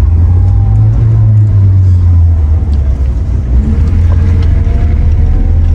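1983 Toyota Corolla KE70's four-cylinder engine running under way with road noise, a steady low drone heard from inside the car, its pitch rising and falling a little.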